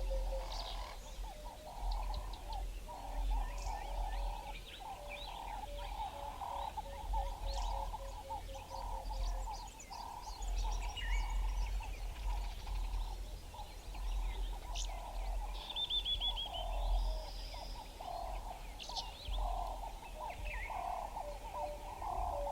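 Mixed bushveld birdsong: a continuous chatter of low, repeated calls, a rapid run of even low notes during roughly the first ten seconds that returns near the end, and scattered high chirps and trills above, over a low rumble.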